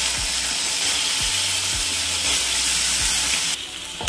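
Cubed root vegetables frying in hot oil in a steel kadai: a loud, steady sizzling hiss that drops off suddenly near the end.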